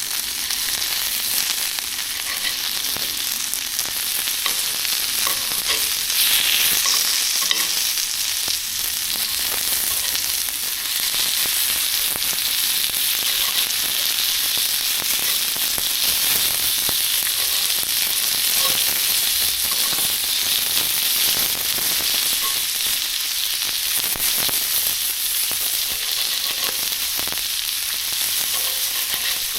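Food frying, a steady loud sizzle with faint scattered pops.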